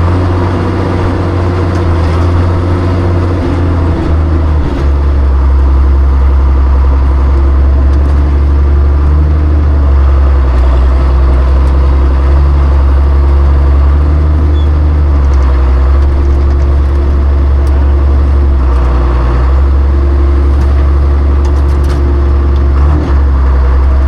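Classic John Deere tractor engine running steadily under plowing work, heard close up. Its low note shifts briefly about four to five seconds in.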